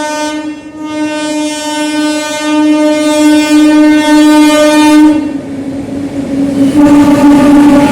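Indian train horn sounding long, loud, steady-pitched blasts: a short break just after the start, then one held for about four seconds that cuts off a little after five seconds in, and another starting near the end. A rolling train's rumble and wheel clatter runs underneath.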